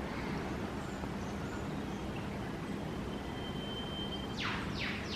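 Male eastern whipbird calling: a long, thin, steady whistle, then a fast falling whip-crack sweep near the end, over faint rainforest background.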